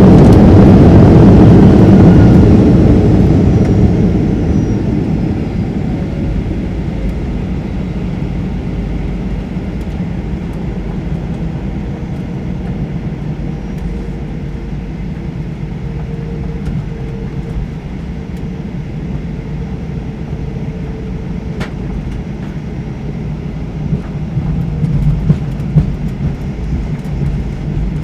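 Cabin noise aboard a Boeing 737-800 just after landing. The loud roar of the CFM56 engines and the rollout fades over the first few seconds as the jet slows, leaving a steady low rumble of engines and wheels on the ground that grows a little louder near the end.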